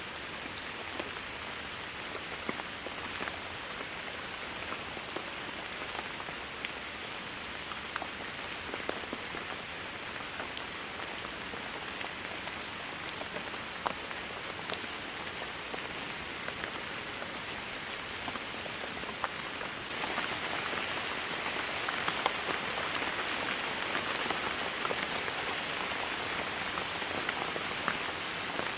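Steady rainfall, a continuous hiss with individual drops ticking through it. About two-thirds of the way through it abruptly turns louder and heavier.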